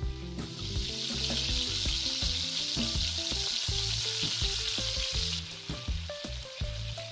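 Quail and lamb pieces frying in hot oil, a loud steady sizzle that cuts off suddenly about five seconds in. Music with sustained low notes plays underneath.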